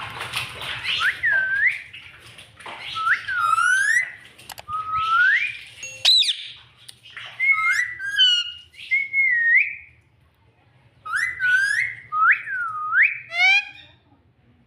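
Pet parrot whistling: a series of short swooping whistles, roughly one a second, mixed with a few quick raspy chirps, and a brief pause about ten seconds in.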